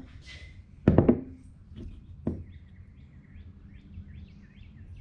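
A quick cluster of loud knocks about a second in, then two lighter knocks, as the jet ski's carburetor and parts are handled. Small birds chirp through the second half.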